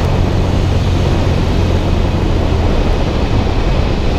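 Cessna 172's piston engine and propeller droning steadily with rushing air noise, heard from inside the small plane.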